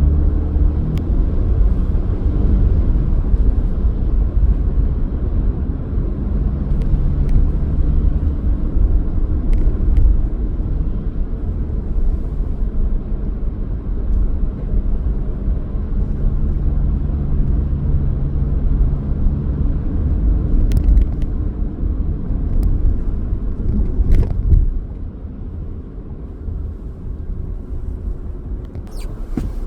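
Car driving on city streets: steady low engine and road rumble with faint shifting engine tones. It turns noticeably quieter near the end.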